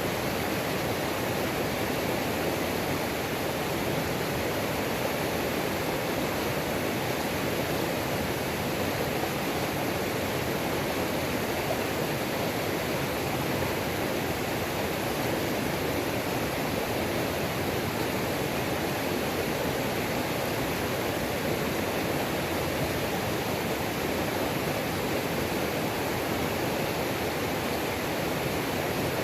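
Waterfall on a mountain creek: water pouring and splashing in a steady, unbroken rush.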